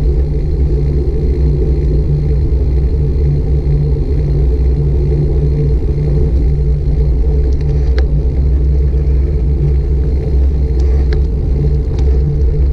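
Steady low rumble of wind and road vibration picked up by a GoPro Hero 5 Black's built-in microphone on a moving bicycle. A few faint ticks come about two-thirds of the way in and again near the end.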